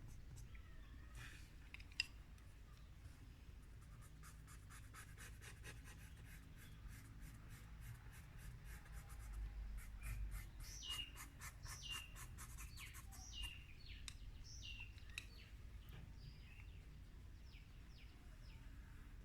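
Faint scratching of a drawing stick on paper in quick, even hatching strokes, several a second, with a run of short falling chirps in the middle.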